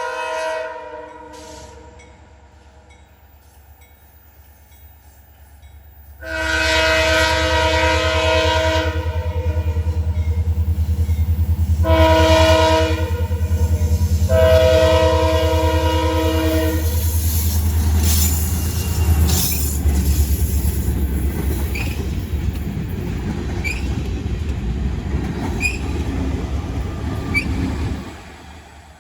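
Locomotive air horn blowing three blasts, long, short and long, over the deep rumble of a train passing close by. After the horn, the rolling cars follow with a clatter and brief high squeals from the wheels, and the sound cuts off suddenly near the end.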